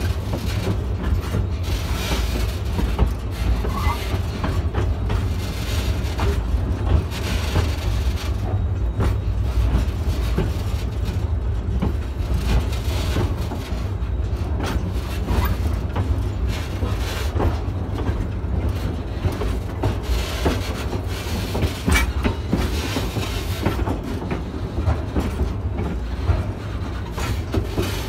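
Steam-hauled train rolling slowly along the track: a steady low rumble, with scattered clacks and knocks from the wheels over the rails.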